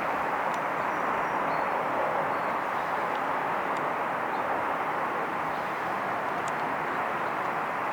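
Steady jet aircraft engine noise at an airport, an even rushing sound that holds at one level.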